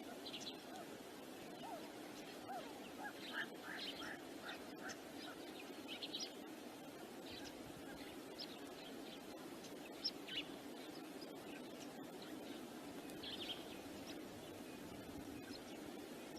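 Scattered short chirps and calls of small birds, over a steady low rush of wind.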